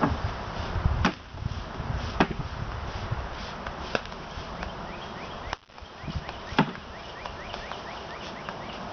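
Wooden bee package being knocked against the hive to shake the bees down into it: four sharp knocks, spaced a second or two apart.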